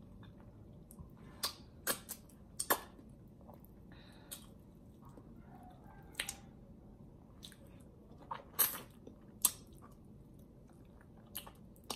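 Close-up mouth sounds of eating meat off a spare rib bone: quiet chewing broken by scattered sharp, wet clicks and smacks at irregular intervals.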